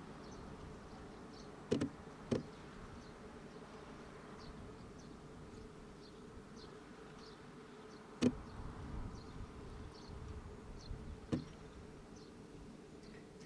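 Quiet outdoor ambience: a faint steady low hum, with short high insect-like chirps repeating about twice a second. Four sharp knocks stand out, a pair about two seconds in and single ones later on.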